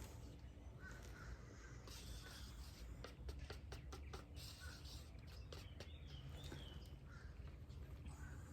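Faint crow caws, several short calls spaced out, over a low steady outdoor rumble, with a few soft clicks about three seconds in.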